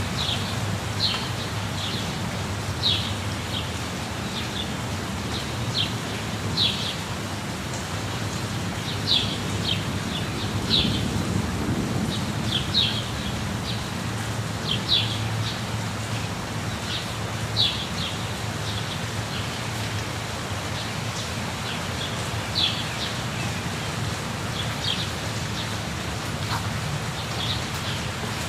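Steady rush of falling water from a waterfall, with birds giving short high chirps every second or two over it.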